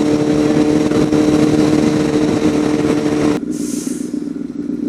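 Sport motorcycle engine running at a steady speed under heavy wind rush on a helmet microphone. About three and a half seconds in, the wind rush drops away suddenly and the engine goes quieter.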